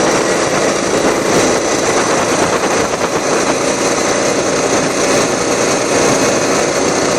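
Racing lawn mower engine running steadily at full throttle during a top-speed run.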